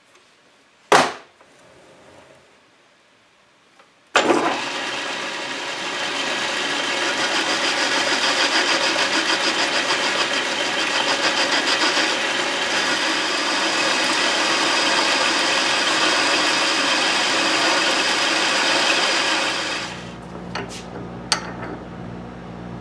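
Logan metal lathe turning a taper with the compound-set cutting tool: a sharp click about a second in, then a loud, steady cutting noise starts abruptly about four seconds in. Near the end the cutting noise stops and the lathe's motor keeps running with a low hum.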